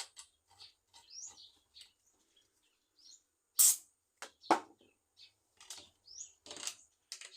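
Small birds chirping, with short rising chirps every second or so. Two loud sharp clicks stand out, about three and a half and four and a half seconds in, among fainter small clicks.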